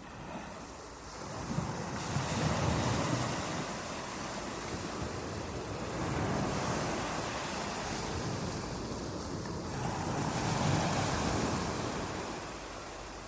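Ocean waves breaking and washing in, three swells of surf about four seconds apart.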